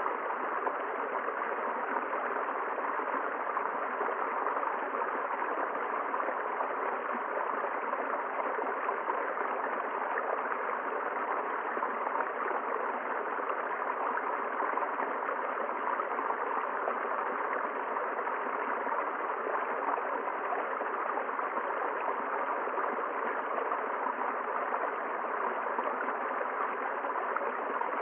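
River water flowing over stones: a steady, even rushing with no breaks or separate splashes.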